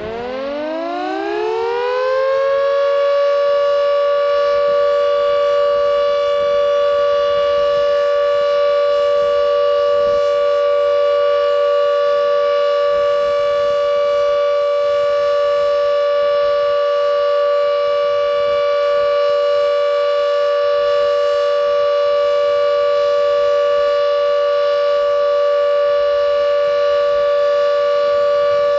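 Carter 1H civil defence siren winding up, its pitch rising over the first few seconds, then holding a steady tone of two close pitches: the continuous tone of the Essex flood warning signal, warning of danger of flooding.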